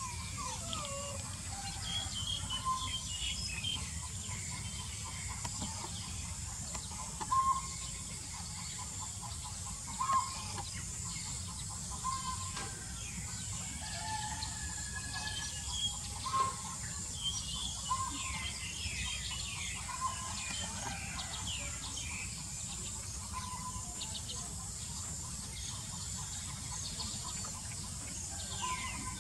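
Outdoor bird sounds: short calls every couple of seconds and scattered chirps, over a steady high-pitched drone and a low rumble.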